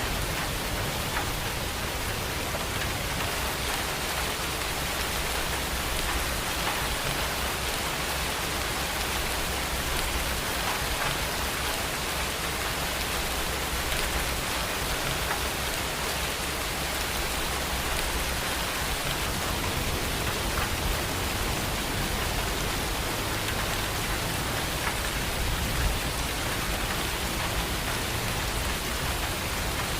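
Steady heavy rain falling, with scattered individual drops ticking on a surface.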